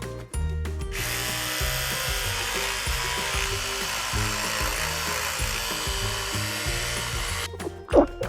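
A steady rushing, whirring noise starts about a second in and stops near the end, over background music with a plodding bass line.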